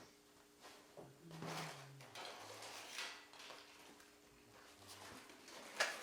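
Tools and small items being handled and set down in a toolbox: irregular clatter, rustling and knocks, with one sharp knock near the end, over a faint steady hum.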